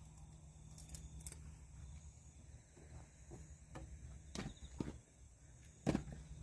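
A few scattered short knocks and clicks, the loudest near the end, over a low steady hum.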